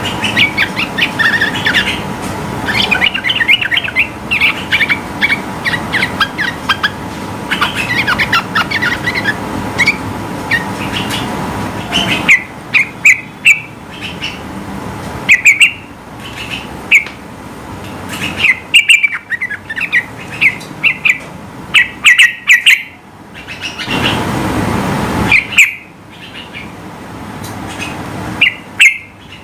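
Yellow-vented bulbul (trucukan) singing. It begins with a fast, dense run of chattering, warbling notes, then from about halfway gives loud, short whistled notes in spaced groups. A brief rush of noise comes near the end.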